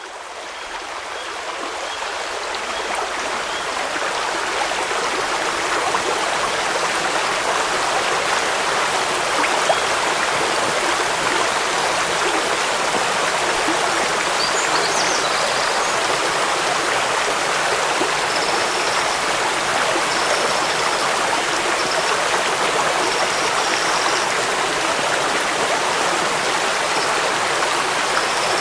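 Steady rushing of a waterfall and stream, with rain mixed in, fading in over the first few seconds.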